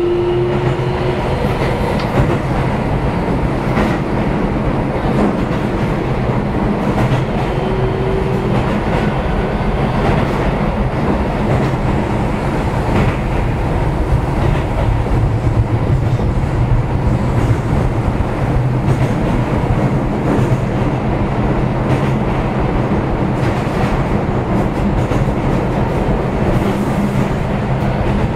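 Keio 7000-series commuter train car running at speed, heard from inside the car: a steady rumble of wheels on rail with faint clicks over the rail joints. A short higher tone sounds right at the start and again about eight seconds in.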